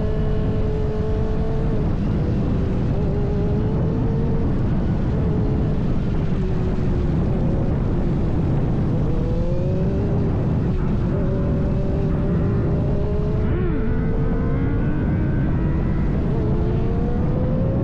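Kawasaki ZX-6R inline-four engine running on the move, its pitch rising and falling with the throttle, under a heavy steady rumble of wind on the microphone.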